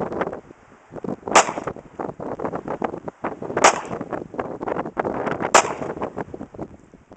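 Three shots from a Glock 19 9mm pistol, fired one at a time about two seconds apart.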